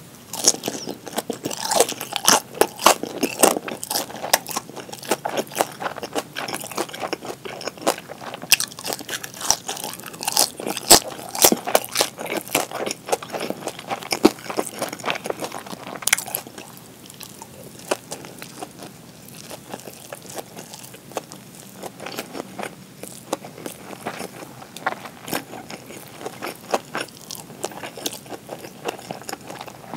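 Close-miked chewing of crispy pan-fried gyoza, dense crackly crunches with each bite. After about sixteen seconds the crunching eases into quieter, sparser chewing.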